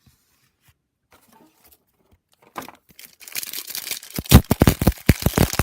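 Foil wrapper of a trading card pack being torn open and crinkled by hand: a quick run of ripping and crackling that starts about halfway through, after a quiet start.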